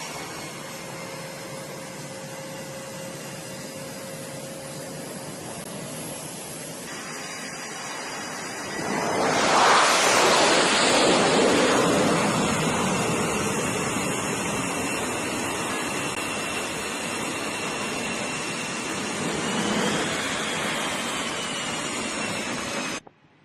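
Jet aircraft engines on an aircraft carrier: a steady rushing noise with a thin whine, swelling sharply about nine seconds in and slowly easing off, with the whine bending upward near the end before the sound cuts off abruptly.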